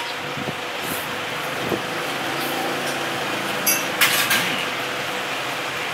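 Steady background road traffic noise, with a few short clatters about a second in and around four seconds in.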